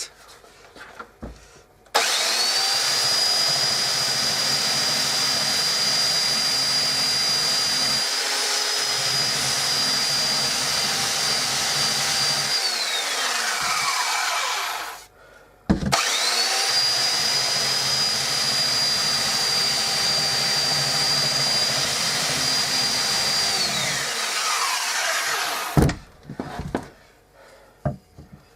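Electric sander with a fresh coarse-grit pad, sanding into wood in two runs of roughly ten and eight seconds. Each run has a steady high whine that falls away as the motor winds down after switch-off.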